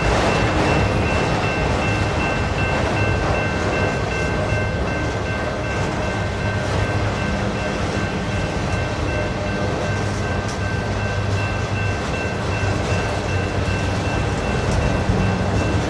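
Freight train of autorack cars rolling past: a steady rumble of steel wheels on rail, with a thin, steady high-pitched ring over it.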